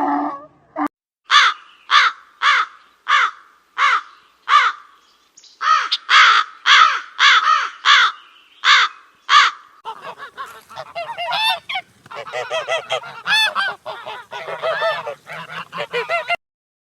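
Birds honking: a steady series of loud single calls, about one and a half a second at first and a little faster later. From about ten seconds in, many birds call over each other until near the end.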